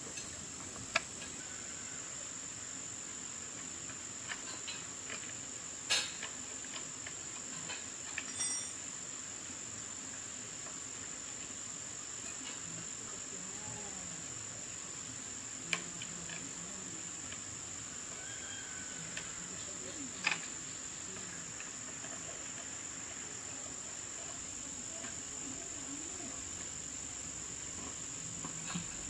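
Steady, high-pitched insect trill, with a few sharp clicks or knocks now and then.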